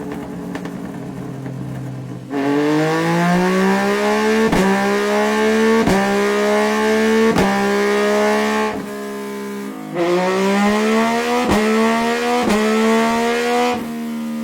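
Yamaha MT-09's three-cylinder engine through a Scorpion Red Power exhaust: idling, then opening up twice, its pitch rising and holding high for several seconds before dropping back. Sharp cracks come every second or so while it is on the throttle.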